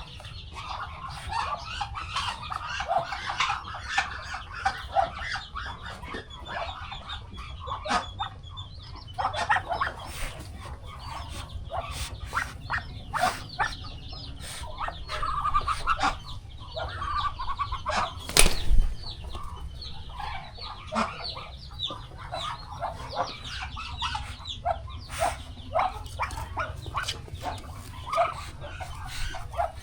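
A flock of chickens clucking and calling over one another, with scattered sharp clicks and one loud knock about 18 seconds in.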